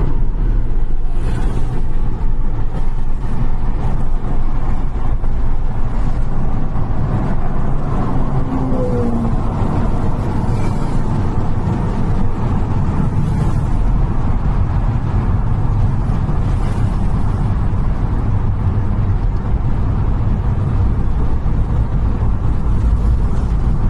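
Road vehicle noise: a steady low rumble of driving traffic, with a few brief hissing swells as vehicles pass.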